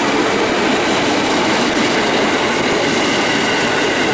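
A train passing close by: loud, steady rolling rail noise, with a faint high wheel squeal.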